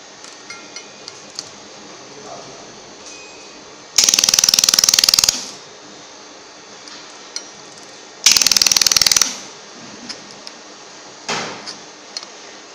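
Handheld pulsed pen laser welder firing on 2 mm steel: two loud bursts of rapid, even buzzing-crackle pulses lasting about a second each, then a shorter, weaker burst near the end. Faint ticks and clicks fall in between.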